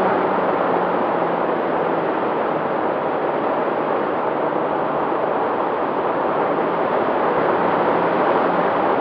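Engine running steadily, with faint low droning tones under a loud, even rushing noise.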